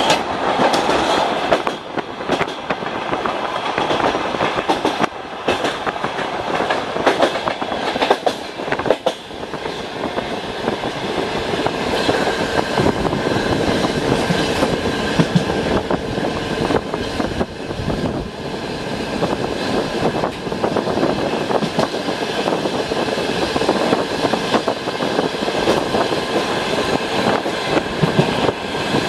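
Passenger train running along the track: a steady rumble of wheels on rails with the clickety-clack of wheels over rail joints, heard from inside the carriage by the window. The clatter is densest over the first ten seconds or so, while the train is on a steel truss bridge, then settles into a steadier rolling noise.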